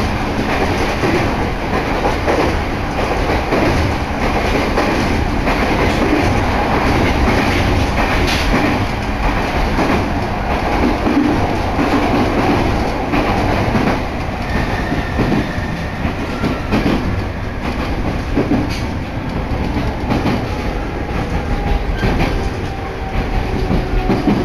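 Electric commuter train running, heard from inside the passenger car: a steady rumble of wheels on rails. Near the end, faint squealing tones as the train slows for its next station.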